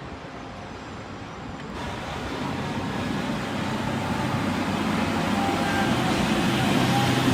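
Heavy log truck's diesel engine running and drawing closer, growing steadily louder, with higher whining tones joining in the second half.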